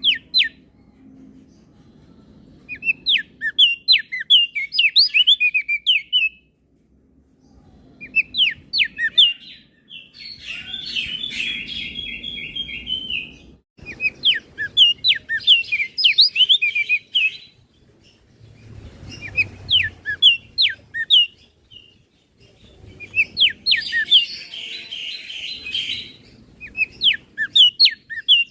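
Crested darkeye (opior jambul) singing in bursts of a couple of seconds: rapid, high sweeping notes, some phrases broken by a harsh buzzy stretch, with short pauses between them. A faint low rumble lies underneath.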